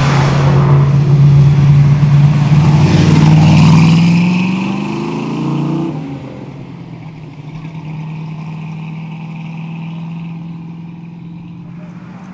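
Performance car engine and exhaust accelerating, the engine note rising in pitch for about six seconds, then lifting off to a quieter, steady lower note.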